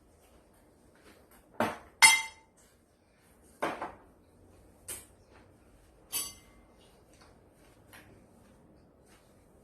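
Dishes and utensils clattering: about five separate knocks and clinks. The loudest, about two seconds in, rings briefly, and another rings near the six-second mark.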